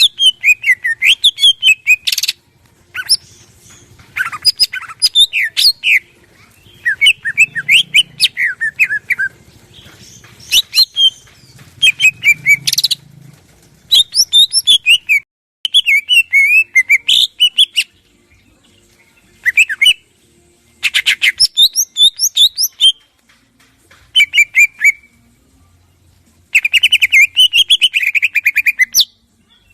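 Greater green leafbird (cucak ijo) singing a loud, varied song. Phrases of fast rapid notes and falling whistles come in bursts of one to three seconds, separated by short pauses.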